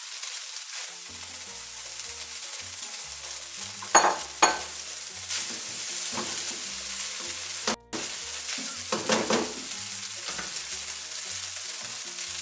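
Spaghetti and vegetables sizzling in a nonstick wok while being stirred and tossed with spatulas. Sharp scrapes and knocks of the spatula against the pan stand out twice about four seconds in and in a cluster around nine seconds. The sound cuts out for a moment just before eight seconds.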